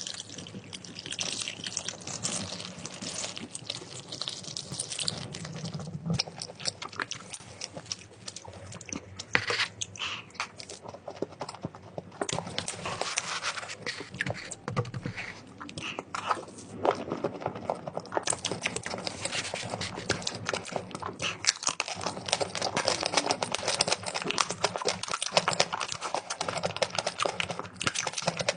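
Close-miked eating sounds: food being chewed, a dense run of crackling crunches and wet mouth clicks, with a few louder crunches along the way.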